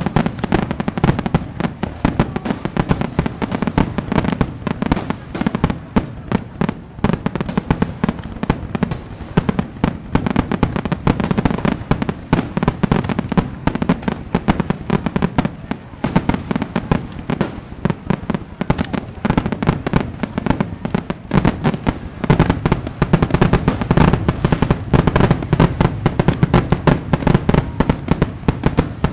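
Fireworks going off in a dense, continuous barrage of many bangs and crackles a second, with no let-up.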